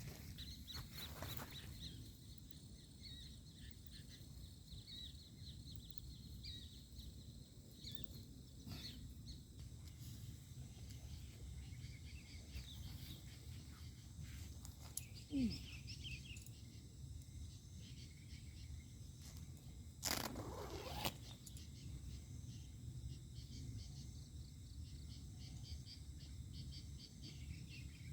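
Quiet night-time outdoor ambience: faint high chirps over a low steady rumble. A short falling tone sounds about halfway through, and a brief hiss comes about two-thirds through.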